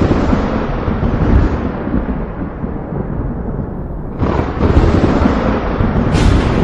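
Thunder rolling in a thunderstorm. A deep rumble fades away, then a fresh thunderclap breaks in suddenly about four seconds in and keeps rumbling, with another crack near the end.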